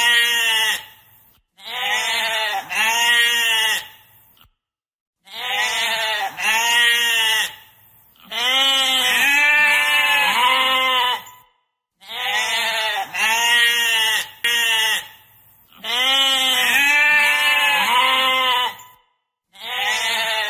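Sheep bleating over and over: quavering bleats in runs of two or three, with brief silent gaps between the runs.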